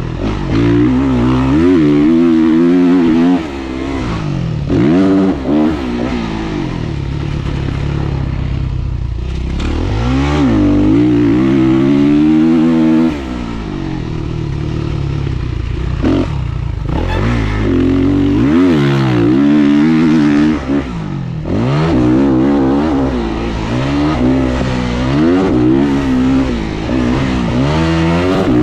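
Dirt bike engine revving up and falling away again and again as the rider accelerates, shifts and rolls off the throttle; the pitch climbs and drops repeatedly, and the throttle is chopped sharply several times.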